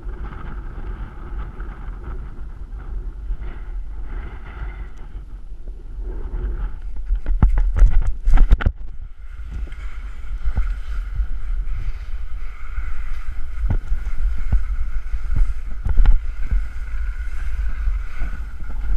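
Glissading down a snow slope: a steady scraping hiss of snow sliding under the body, with wind buffeting the microphone. A run of loud knocks and bumps comes about eight seconds in, and another near sixteen seconds.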